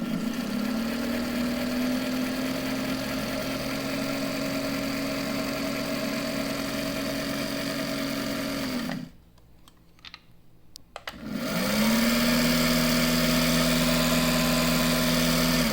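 Elna Super sewing machine's electric motor running steadily under the foot pedal. It stops about nine seconds in, with a couple of clicks during the pause, then winds up again about two seconds later and runs louder.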